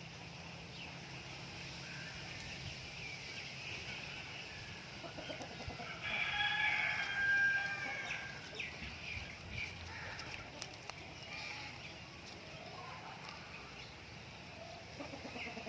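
A bird calling: one long call of about two seconds midway, with shorter, fainter bird calls around it.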